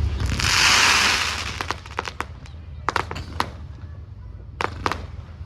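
Aerial fireworks: a dense crackling hiss for about a second, then a run of sharp bangs, several of them in quick pairs.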